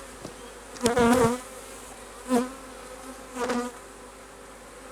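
Honey bees buzzing around an open hive: a steady hum, with single bees flying close past about a second in, again near two and a half seconds and near three and a half seconds, their buzz bending up and down in pitch as they pass.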